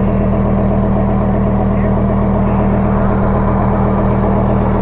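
A vehicle engine running at a steady idle, holding one even pitch with no revving.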